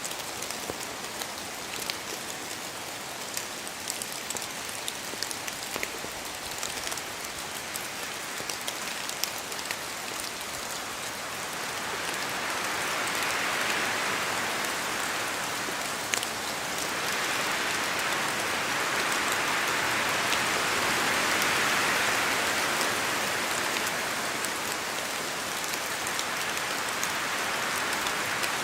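Steady rain in a forest, with scattered drops pattering from the trees, swelling louder in two long surges in the second half as wind gusts through the trees.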